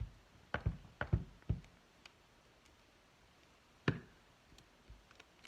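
A series of light knocks and taps on a work table as craft papers and supplies are handled and set down: a quick run of about six in the first second and a half, one sharper knock near four seconds, then a few faint ticks.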